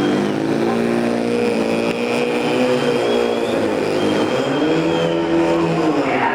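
Car engine running loudly at varying revs, its pitch dipping about two seconds in, then rising and falling again near the end.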